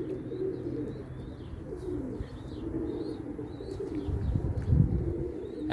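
Domestic pigeons cooing in a loft, with faint high chirping from small birds.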